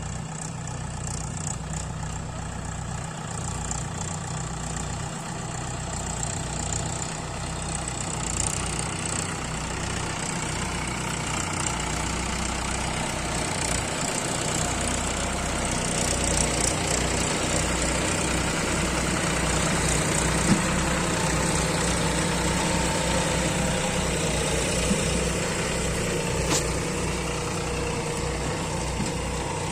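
Diesel tractor engine running steadily under load while pulling a loaded sugarcane trolley. It grows gradually louder through most of the stretch, then eases slightly near the end.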